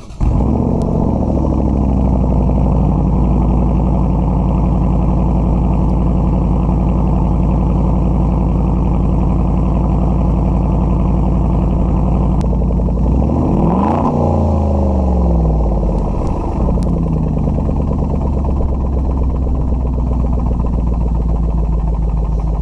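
Land Rover LR4 engine with a muffler-deleted H-pipe exhaust, just fired in freezing weather and running loud; the fast idle drops and settles over the first couple of seconds, then holds steady. About 13 seconds in it is revved once, up and back down, before settling to idle again. It is a restart in the cold after the engine has already run once, so it is not as loud as the first cold start.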